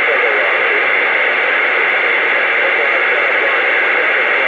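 CB radio receiver hissing with loud, steady static while the channel is open, a faint garbled voice barely showing through the noise.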